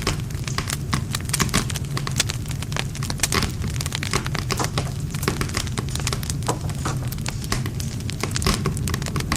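Wood campfire burning and crackling, with dense, irregular sharp snaps of the burning wood over a steady low sound of the flames.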